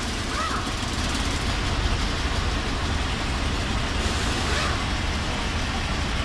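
Mercedes truck's diesel engine running steadily: a low rumble under a broad, even hiss.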